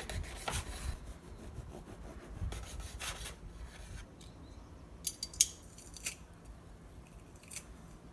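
Kitchen utensils at work on food: a few rasping, scraping strokes in the first half, then a handful of sharp clicks and taps, the loudest about five and a half seconds in.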